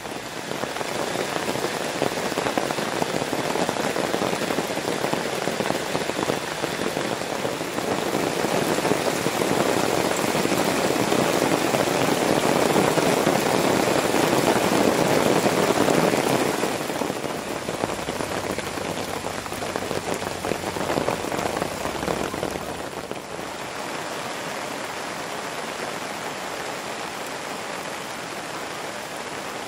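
Rain falling on a fabric tarp flysheet, heard from beneath it. The rain grows heavier toward the middle, then eases off over the last third.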